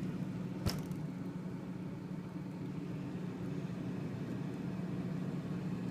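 Refrigerator-freezer running with a steady low hum, and one sharp click about a second in.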